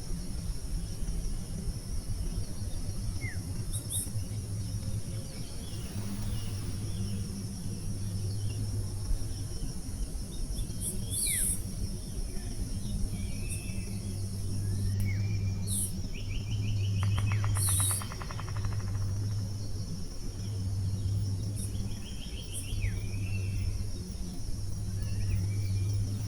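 Wild birds giving short, sharp, falling chirps, with one fast rattling trill about two-thirds of the way through, over steady insect buzzing and trilling. A low steady hum runs beneath.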